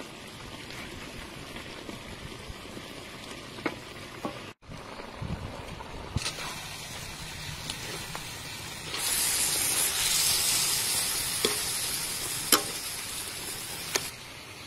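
Chicken drumsticks and leafy greens sizzling in a wok of sauce, with a few sharp clicks of a metal spatula against the wok. The sizzle grows louder about nine seconds in and drops back near the end.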